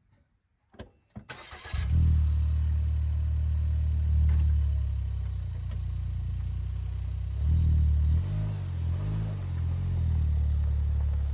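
Suzuki Jimny engine being started: a couple of clicks and a short crank, then it catches about two seconds in and idles steadily. The engine note wavers briefly about eight seconds in.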